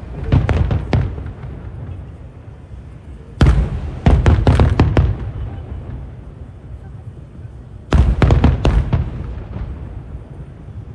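Fireworks shells bursting in three volleys of rapid sharp bangs: one near the start, one about 3.5 to 5 seconds in and one about 8 to 9 seconds in. Each volley is followed by a low rumbling echo.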